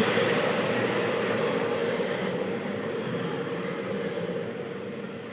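Helicopter running, a steady rotor and engine noise with a faint held tone, gradually fading over a few seconds.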